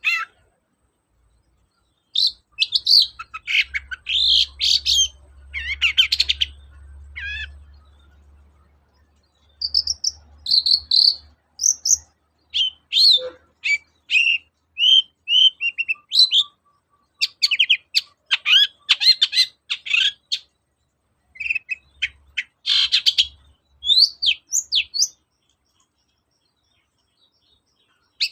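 Long-tailed shrike (cendet) singing: bursts of rapid, scratchy chattering phrases and short whistled notes, separated by brief pauses, with a longer silence near the end.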